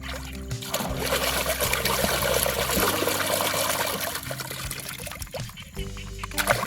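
Water pouring and trickling steadily for about four seconds, fading out near the end.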